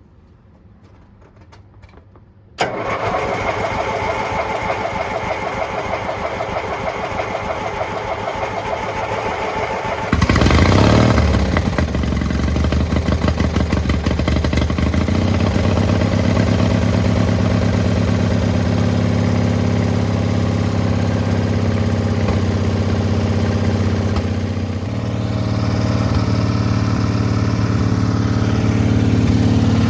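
The freshly rebuilt small engine of a mud mower, being started with an empty carburettor bowl: the starter cranks it steadily for several seconds, it catches with a loud surge about ten seconds in, and then it settles into running. Its note steps up again about five seconds before the end.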